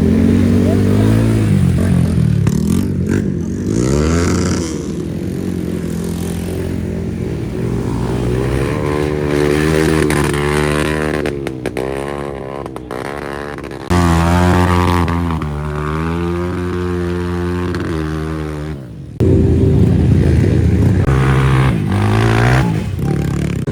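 Off-road motorcycle engines revving, their pitch rising and falling over and over, with sudden jumps in sound about 14 and 19 seconds in.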